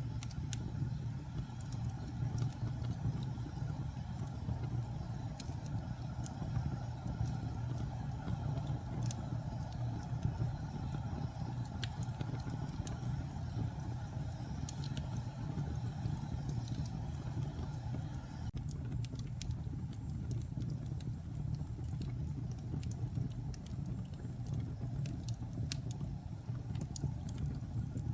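Wood fire burning in a fireplace: a steady low rumble of the flames with scattered sharp crackles and pops, which come more often in the last third.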